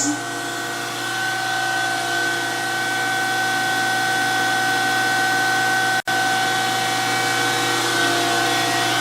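DoAll 14-inch surface grinder running with a steady whine during light finishing passes that take tenths off the work. The sound cuts out for an instant about six seconds in.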